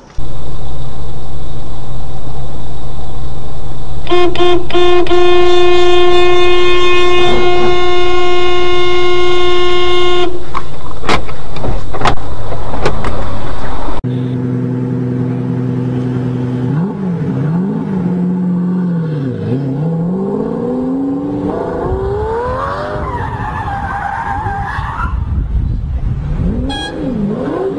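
A loud car horn held for about six seconds over very loud road noise. Then a sports car engine revving and accelerating hard, its pitch climbing again and again as it pulls through the gears.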